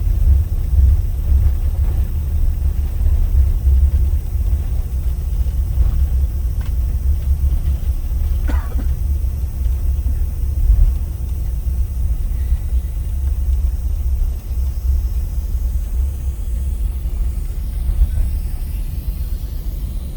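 Steady low rumble inside the cabin of an Airbus A380 on the ground after landing, from its wheels and engines, with a few faint clicks and rattles.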